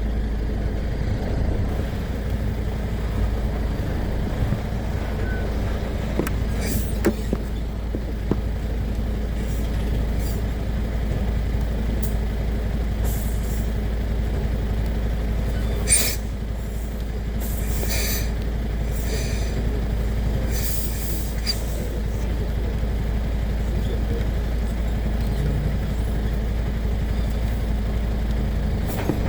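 Heavy truck engine running with a steady low drone, with a few short hisses along the way and a sharp click about halfway through.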